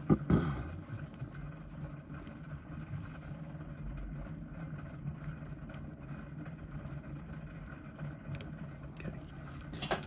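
Steady low background hum with a few faint clicks and taps.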